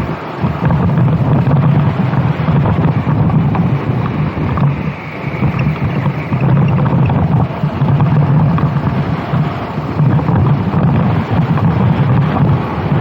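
Racing kart engine running hard under wind buffeting on the microphone; the engine note drops briefly just after the start and again about five seconds in, then climbs back up.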